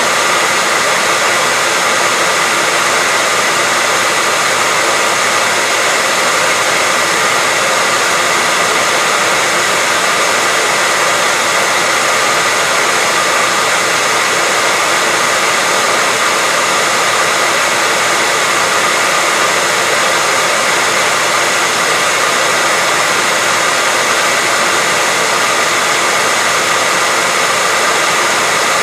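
Hair dryer blowing continuously at a steady speed: an even, unchanging rush of air with a faint steady whine, used as white noise.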